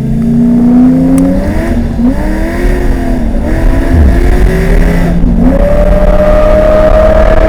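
Ford Falcon XR6 Turbo's turbocharged inline-six revving up and down on the track, its pitch rising and falling, with a brief drop about five seconds in before it settles to a steady higher note. The revs flare and fall on a wet track where the car could not get traction.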